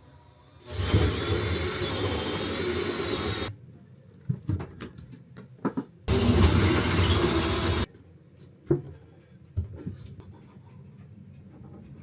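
A machine running loudly in two bursts, the first about three seconds long and the second, near the middle, a little under two, with a few knocks and clicks between and after them.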